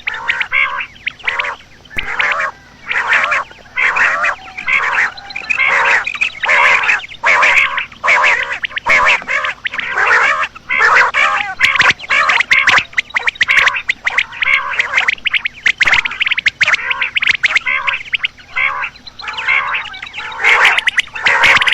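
Common quail calling: a rapid, nearly continuous run of short, harsh, croaking calls, several a second with only brief pauses, the kind of call recording played to lure quail when hunting.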